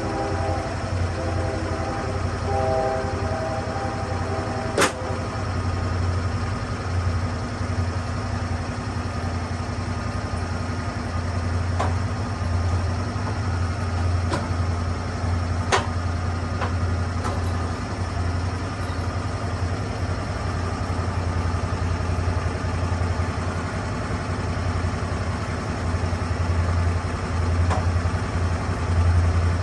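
Lucas Mill 10-30 swing blade sawmill's engine running steadily with a deep hum, with a few sharp knocks, the loudest about five seconds in and another near sixteen seconds.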